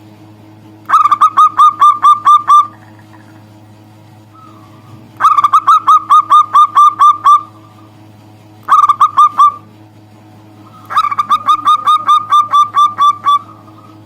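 Zebra dove (perkutut) calling: four bursts of quick, repeated, clipped cooing notes, about five a second, with short pauses between bursts.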